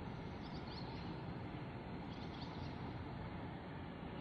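Birds chirping: short, high chirps come a few at a time over a steady, low background rumble.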